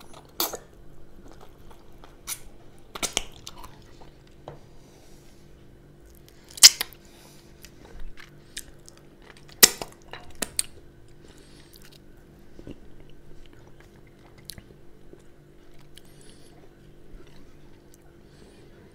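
A person chewing food close to the microphone, with scattered sharp wet smacks and clicks. The two loudest come about a third of the way in and again about halfway. A faint steady hum runs underneath.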